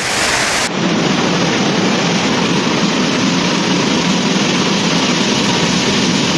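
Storm downpour: torrential rain pounding down in a steady, dense roar, beginning after a sudden change in the sound under a second in.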